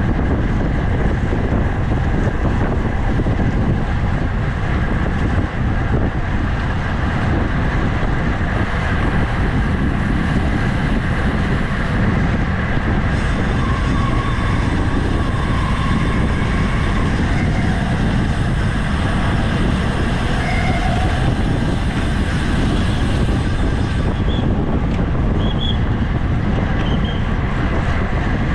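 Steady wind rumble on the microphone of a road bicycle riding at race speed.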